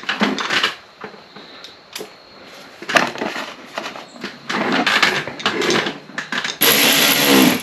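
Clicks, knocks and rattles of parts and tools being handled while a motorcycle lower fairing is refitted. A louder, noisier sound about a second long comes near the end.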